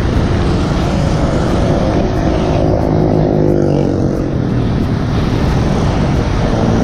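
Heavy wind buffeting on an action-camera microphone while riding a road bike, a steady low rumble. Underneath it, a passing motor vehicle's engine rises and falls in pitch for a few seconds.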